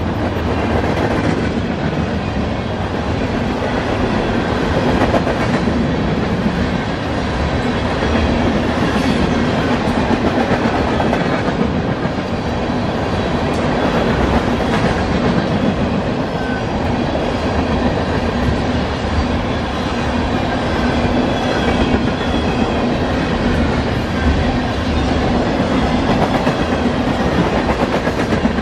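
Freight train tank cars rolling past: a steady rumble of steel wheels on rail with a repeated clatter as the wheels cross the track.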